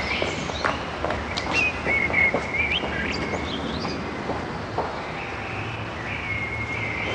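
Birds chirping in short twittering phrases over steady outdoor background noise, with a few faint clicks.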